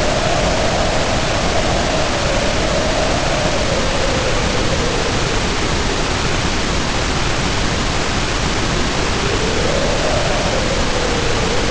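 Heavy rain as a steady dense hiss, with wind howling over it in a wavering moaning tone that rises and falls, fades through the middle and swells again near the end.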